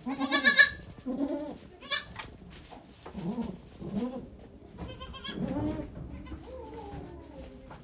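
Goats bleating: a loud, high bleat in the first second, another at about two seconds and again around five seconds, with several lower, shorter calls in between.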